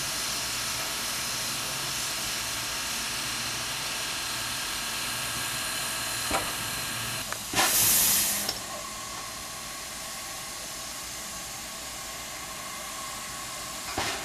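China Railways JS-class steam locomotive standing, hissing steam steadily. About halfway through comes a louder burst of steam lasting about a second, after which the hiss goes on more quietly.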